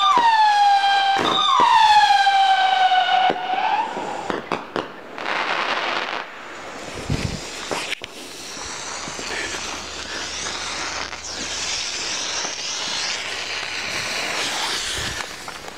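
Fireworks: a high whistling tone slides down in pitch and starts again twice in the first few seconds, then a long run of dense crackling and popping.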